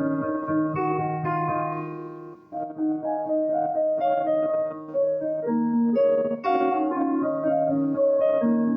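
Instrumental keyboard music in a piano-like voice: held chords with a melody of single notes above them, easing off briefly about two and a half seconds in before the chords return.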